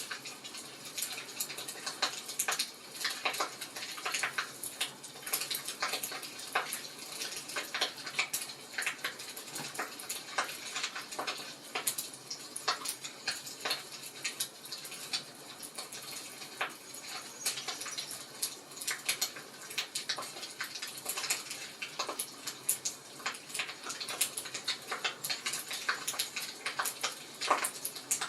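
Wood fire crackling in a fireplace: irregular pops and snaps over a soft hiss.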